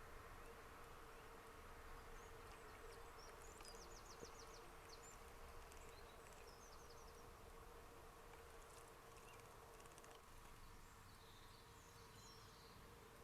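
Quiet outdoor ambience with faint, high bird calls: a quick run of short notes about four seconds in and scattered chirps later, over a steady faint hum.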